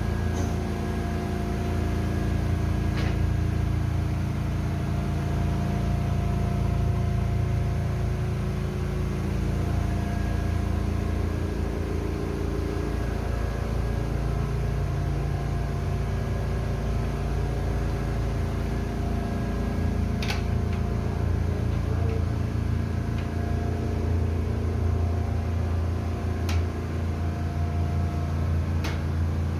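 Caterpillar diesel auxiliary engine running steadily with a deep, even hum, heard close up in the engine room, with a few faint clicks over it.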